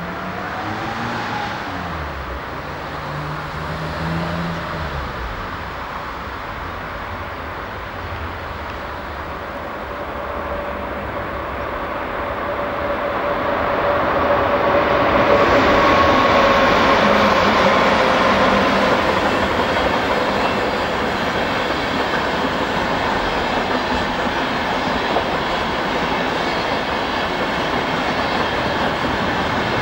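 A train passing on the line, its rumble building from about ten seconds in and then staying loud, with a steady whine and some clatter of wheels over the rails.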